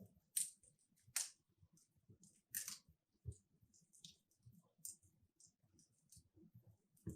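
Logs burning in a wood fireplace, crackling quietly: three sharp pops in the first three seconds, with faint scattered ticks and soft low knocks between them.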